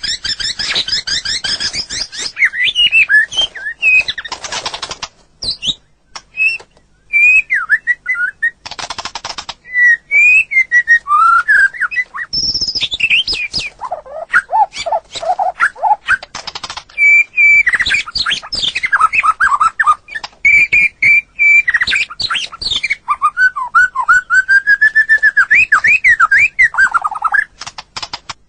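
White-rumped shama (murai batu) singing a long, varied song. Clear whistled phrases rise and fall, broken now and then by quick rattling trills, with a run of lower warbled notes about halfway through.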